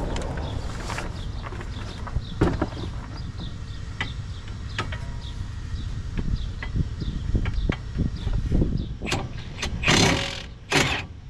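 Scattered metallic clicks and knocks from hand tools and brake parts being handled, over a steady low rumble. Near the end come two short, louder bursts of hissing noise.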